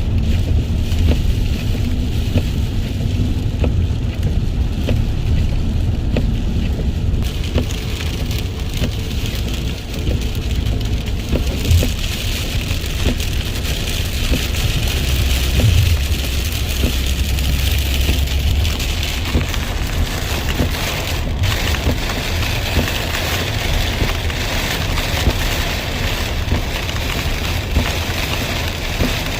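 Steady rain, with many separate drops ticking on a surface over a constant hiss and a low rumble underneath. The hiss grows stronger about twelve seconds in and again near twenty seconds.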